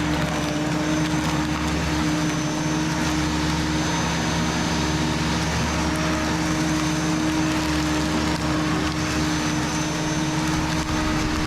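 Flymo corded electric lawn mower running steadily while cutting overgrown grass, its motor giving a constant hum at one pitch over the rush of the blade.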